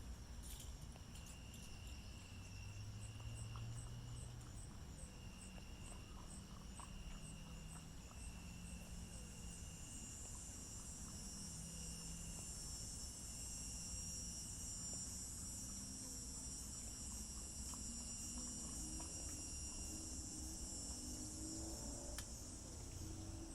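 Insects chirping: a repeated chirp in short phrases over a high, fine trill that grows stronger about ten seconds in.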